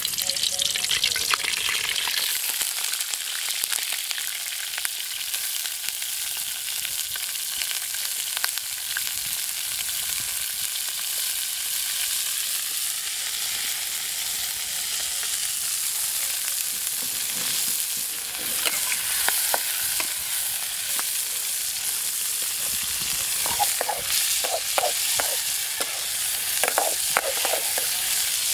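Banana worm larvae frying in hot oil in a pan: a steady sizzle with scattered pops and crackles. A few short, sharper sounds come near the end.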